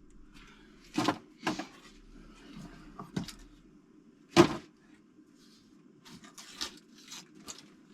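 A few sharp clicks and knocks of engine parts being handled, the loudest about four and a half seconds in, with smaller ticks near the end, over a steady low hum.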